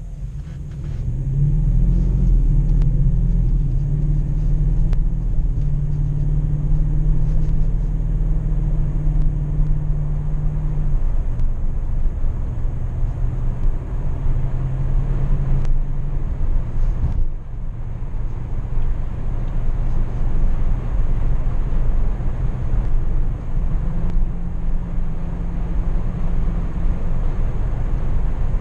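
BMW X5 4.4i V8 engine and exhaust heard from inside the cabin as the SUV pulls away and accelerates, its note climbing in steps through the upshifts, then settling into a steady drone at cruising speed.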